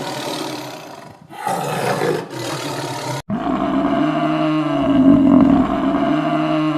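Two loud, rough roaring calls from a large animal, then a sudden cut a little after three seconds in to a different animal's long, steady pitched call, which is the loudest part.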